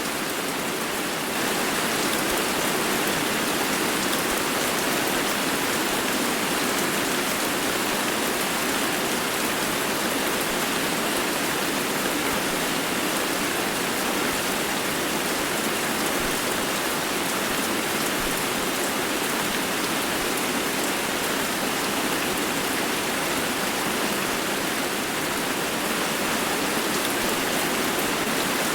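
Steady rain falling, an even hiss of drops on hard surfaces with no breaks.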